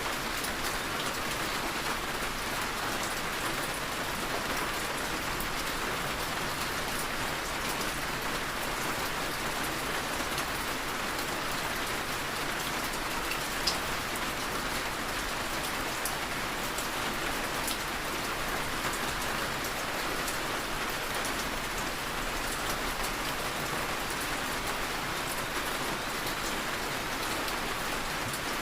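Steady heavy rain falling on surfaces, with scattered individual drops ticking and one brief sharper tick about halfway through.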